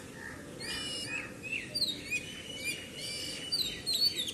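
Small birds chirping, many short quick chirps sweeping up and down in pitch, several a second.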